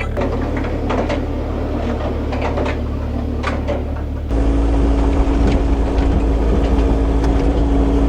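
A machine's engine running steadily, with a few knocks and clanks in the first half. About four seconds in it suddenly becomes louder and steadier, with a held low tone.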